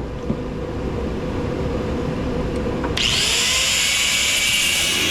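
A handheld power tool starts up about three seconds in and runs steadily with a loud, hissing whir, working on a scrap electric motor held together by pins. A steady low hum comes before it.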